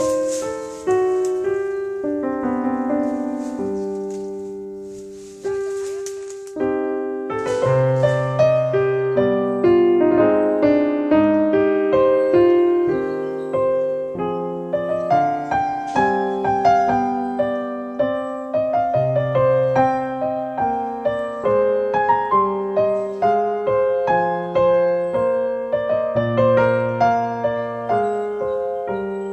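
Background piano music: a slow melody with chords, notes struck and left to ring, pausing briefly about six seconds in before going on.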